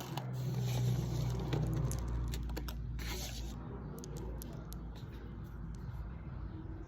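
Close-up food noises: soft squishing and crackling with scattered quick clicks over a steady low hum.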